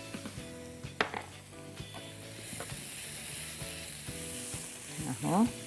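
Chopped onion, peppers and garlic sizzling in a nonstick frying pan while a silicone spatula stirs and scrapes them, with a sharp tap about a second in. A short voice-like sound comes near the end.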